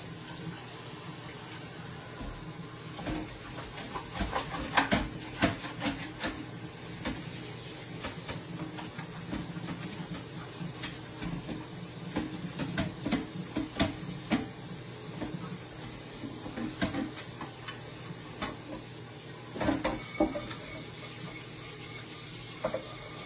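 Kitchen tap running into a sink, with scattered knocks and clatter of a pan being handled and washed.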